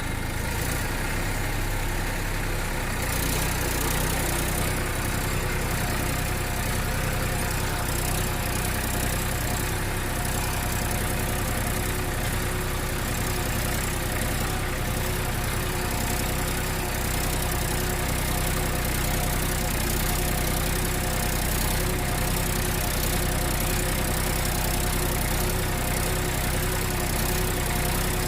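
Tractor engine running steadily at idle: a low, even drone with a few steady tones above it.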